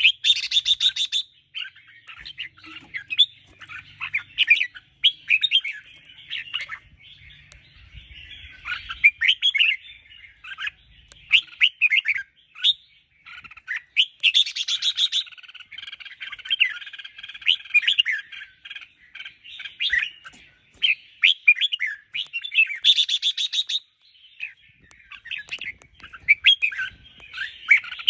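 Red-whiskered bulbul singing: a continuous run of quick, varied chirps and whistles, broken three times by a short burst of rapid harsh chatter.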